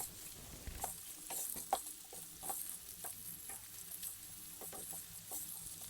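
Onions frying in oil and butter with garlic and ginger, a faint sizzle, with irregular light taps of a utensil stirring them in the pan.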